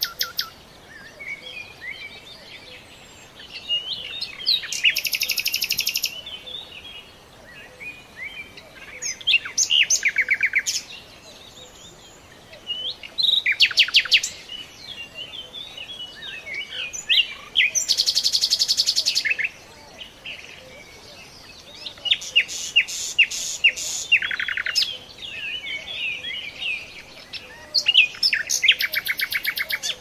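Songbirds singing. Loud rapid trills of quickly repeated notes come every few seconds, with softer scattered chirps and twitters in between.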